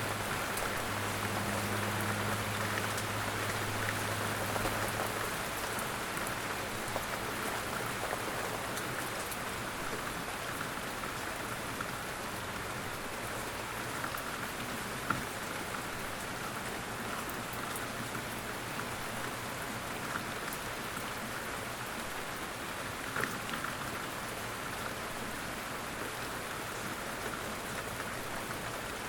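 Light rain falling steadily in woodland, an even patter with scattered louder single drops and one sharper drop about halfway through. A low steady hum sits under the rain for the first few seconds, then fades.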